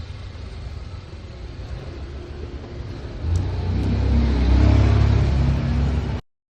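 Low engine-like rumble of a vehicle, getting much louder about three seconds in, then cutting off abruptly.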